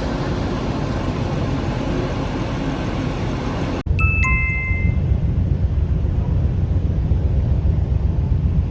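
Steady rushing engine and wind noise aboard a ferry, then, after an abrupt cut about four seconds in, a two-note falling ding-dong chime like a shipboard announcement chime over the low, steady hum of the ship's engines.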